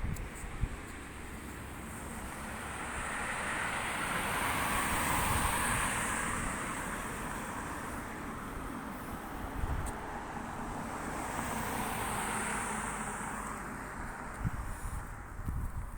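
Road traffic: two vehicles pass one after the other, each a hiss of tyre and road noise that swells and fades away. The first peaks about five seconds in, the second about twelve seconds in.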